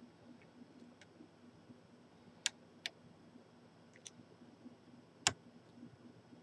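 Irregular small sharp metallic clicks of lock picks working inside a lock, a handful of them, with the loudest about five seconds in.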